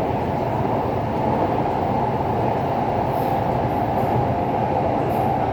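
Taipei Metro C381 train running steadily between stations in the tunnel: a continuous, even rumble of wheels on rail, heard from inside the car.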